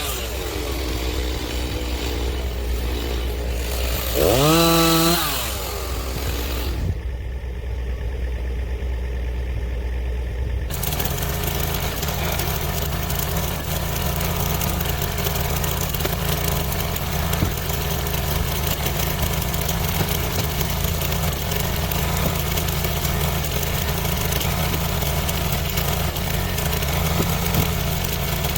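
Stihl chainsaw running at idle, revved once briefly about four seconds in. After an abrupt cut, an engine idles steadily for the rest.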